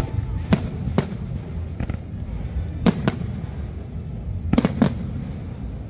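Aerial firework shells bursting overhead with sharp bangs: one about half a second in, one at a second, a pair near three seconds and a quick cluster of three near five seconds, over a steady low background rumble.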